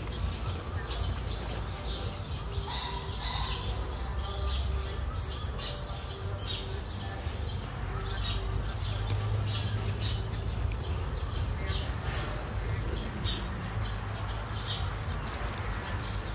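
Small birds chirping and calling, many short high notes, with a short low note repeating about twice a second through the first half, over a low rumble.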